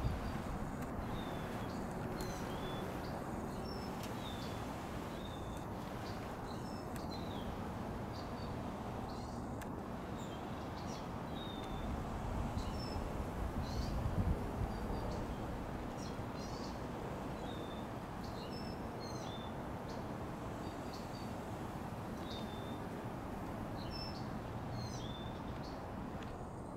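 A bird gives short high chirps, some sliding down in pitch, repeated about once a second, over steady low background noise that swells briefly about halfway through.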